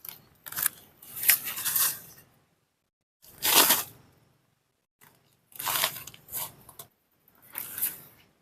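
Four bursts of rustling and crunching, each a second or two long, separated by short silences.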